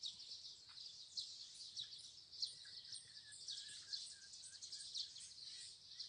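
Birds chirping faintly: many short, high chirps repeating throughout, with a few lower, softer notes in the middle.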